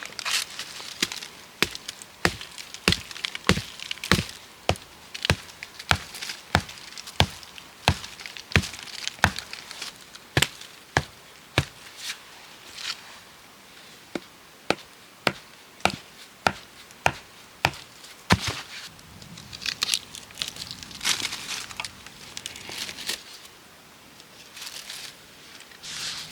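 A tool striking wood in a steady run of sharp blows, nearly two a second, that stops about eighteen seconds in; rustling and crackling follow.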